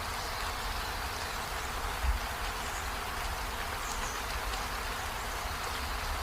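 Steady hiss of rain falling, with a low rumble underneath and a brief low thump about two seconds in.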